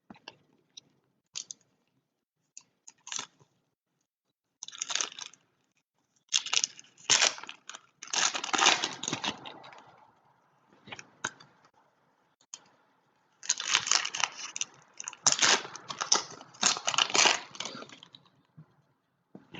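Trading-card pack foil wrappers crinkling and tearing in irregular bursts, with the longest runs of handling in the middle and latter part.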